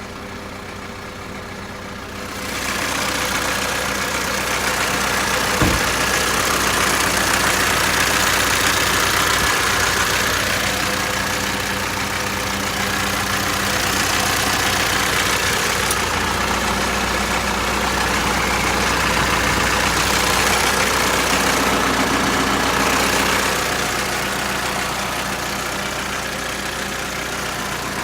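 Mitsubishi Canter truck engine running steadily at idle; about two and a half seconds in it gets louder, with a strong hiss over the engine note, and it eases back down near the end.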